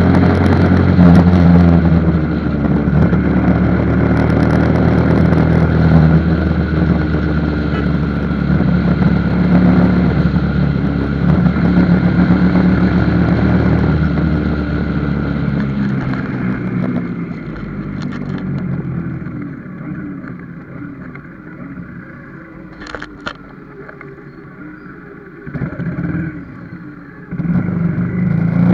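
Motorcycle engine running during a ride, loud and steady at first; about sixteen seconds in it drops away to a low running sound, then picks up again near the end.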